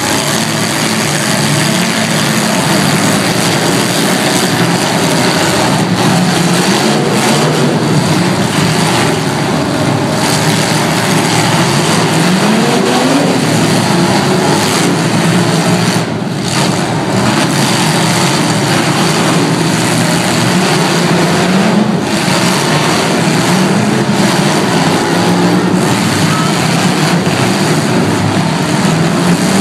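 Several demolition derby cars' engines running loudly together, some revving up in pitch now and then.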